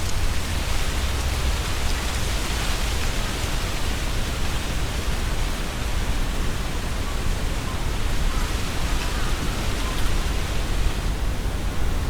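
Strong wind blowing through trees, setting the leaves rustling in a steady hiss, with a low rumble of wind buffeting the microphone.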